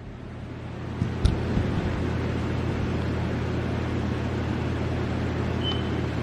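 Steady low machine hum under an even hiss, which grows louder with a click about a second in and then holds steady.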